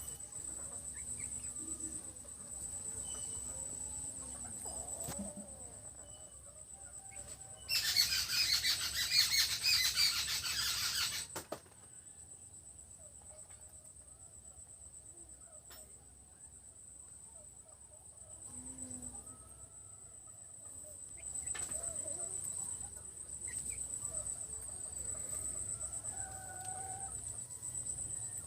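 Young parrot-beak Aseel chickens clucking and calling in short curved notes, with a loud burst of wing flapping about eight seconds in that lasts some three seconds. A steady high cricket trill runs underneath.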